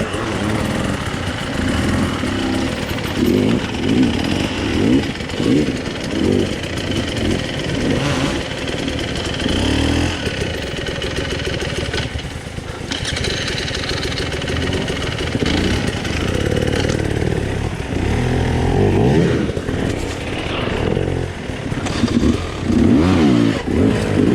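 Off-road dirt bike engine heard from on board the bike, revving up and falling back over and over as the throttle is worked. It eases off briefly about twelve seconds in, then picks up again.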